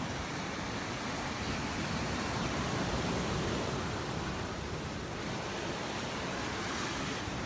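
Surf washing ashore on the beach, a steady, even rush of waves.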